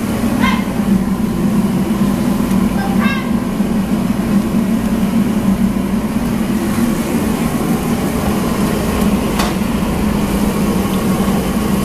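Steady, loud drone of kitchen machinery with a low hum, unchanging throughout. A few short voice fragments are heard early on and about three seconds in, and a single sharp click comes near the end.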